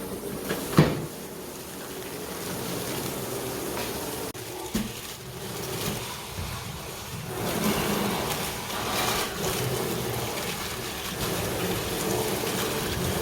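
Wood fire crackling and hissing, with a sharp pop about a second in; the crackling grows denser in the second half.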